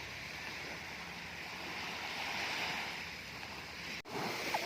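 Steady wash of surf breaking on a beach, which cuts off abruptly near the end.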